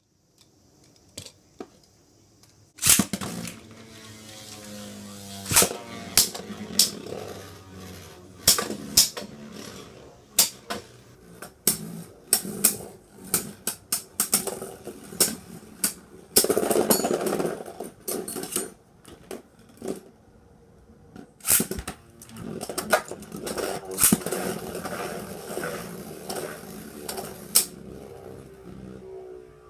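Beyblade Burst spinning tops, Jaeger Yggdrasil and Neptune, launched into a plastic stadium with a sharp crack about three seconds in. They then spin with a whir that slowly falls in pitch as they lose speed, clashing again and again with sharp clacks.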